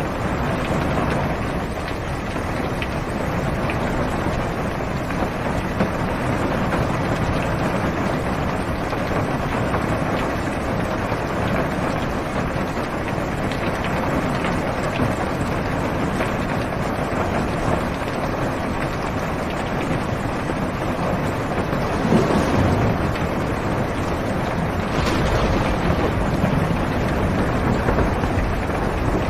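Heavy rain falling on a car's roof and windows, heard from inside the cabin as a steady, dense hiss with a low rumble underneath. It swells briefly about two-thirds of the way through.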